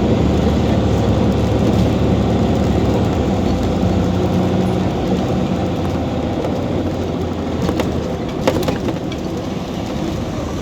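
Scania OmniCity city bus engine running with a steady low hum that fades after about five seconds as it eases off. Two sharp knocks come near the end.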